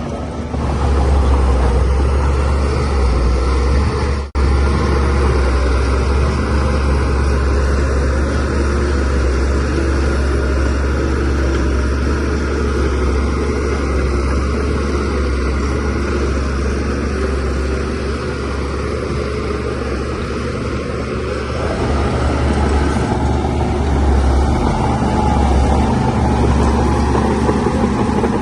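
DH17C3PRO bulldozer's diesel engine running steadily under load while pushing soil, a deep, even drone that cuts out for an instant about four seconds in.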